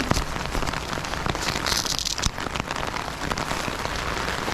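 Freezing rain pattering densely on surfaces in a steady stream of fine ticks, with a brief louder hiss about one and a half seconds in.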